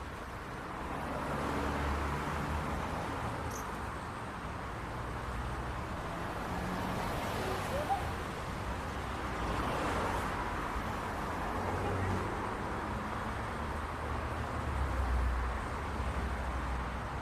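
City street traffic: a steady rumble of passing cars and engines, swelling as vehicles go by about two seconds in, near the middle and near the end, with a brief high chirp about halfway through.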